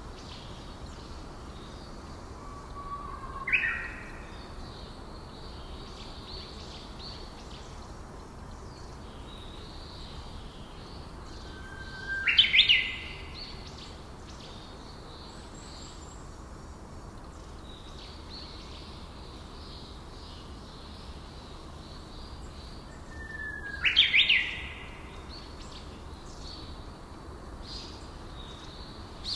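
Birds calling. One bird gives three loud calls about ten seconds apart, each a short whistle that snaps up into a sharp high crack, over faint steady twittering of other birds.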